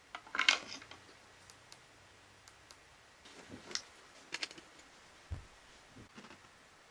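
Light clicks and short rattles of small hard parts being handled, with a cluster about half a second in, a few more after three and a half seconds, and a soft low thump a little past five seconds.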